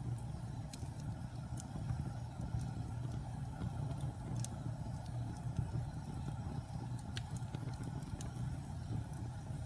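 Wood fire burning in a fireplace: a steady low rumble with scattered sharp crackles and pops every second or so.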